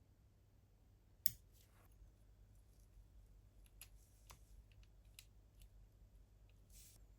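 Small plastic parts and hobby tools being handled: one sharp click about a second in, then scattered light clicks and taps.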